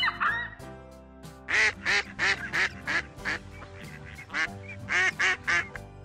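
A bird calling in a quick series of about ten short honks, starting about a second and a half in, over soft background music.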